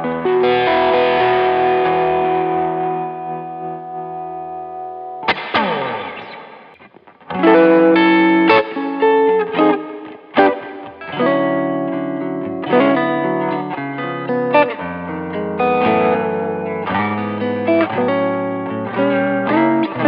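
PRS Modern Eagle III 25th Anniversary electric guitar played through an overdriven amp tone. A held chord rings and fades over the first few seconds, then comes a short falling sweep across the strings, and from about a third of the way in a run of quick picked notes and chords.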